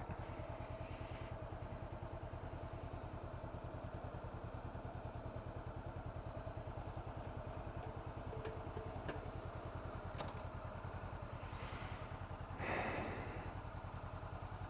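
A 2017 Honda CB500F's parallel-twin engine runs steadily at an even speed, with a brief rush of noise near the end.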